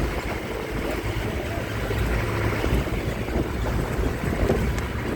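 Moving bus: a steady low engine and road rumble with wind buffeting the microphone.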